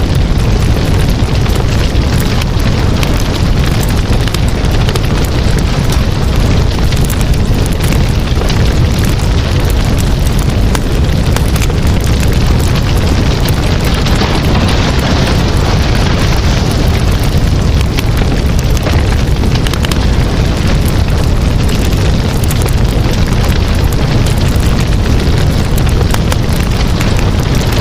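Wood campfire burning: a steady low rumble of the flames under frequent sharp crackles and pops from the burning wood.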